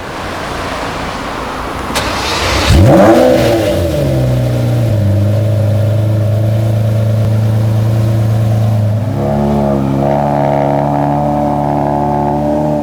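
Lamborghini Murciélago LP670-4 SuperVeloce's V12 starting through a Tubi exhaust: a loud flare of revs that rises and falls about three seconds in, then settling into a steady idle whose note changes about nine seconds in.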